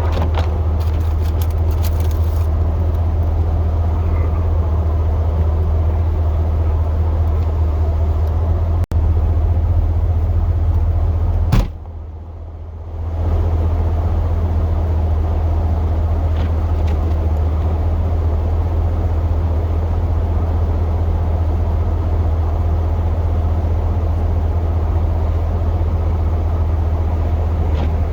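Plow pickup truck running steadily, a continuous low drone of engine and road noise, with a few faint clicks in the first couple of seconds. The sound drops away briefly about twelve seconds in, then resumes.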